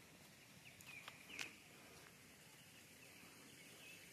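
Near silence, broken by a few brief, high bird chirps about a second in.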